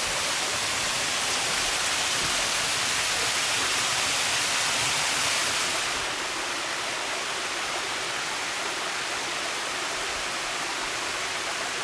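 Waterfall pouring: a steady rush of falling water, a little softer after about six seconds.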